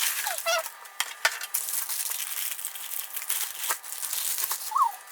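Food packaging being handled and opened, crinkling and rustling with many small clicks and a couple of brief squeaks.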